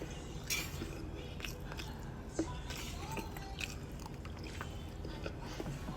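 A person chewing a dry pancake close to the microphone: scattered small clicks and crunches from the mouth over a faint steady low hum.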